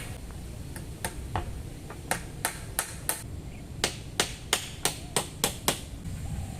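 Sharp, light knocks of a tool striking wood, in quick runs of about three a second, over a steady low rumble.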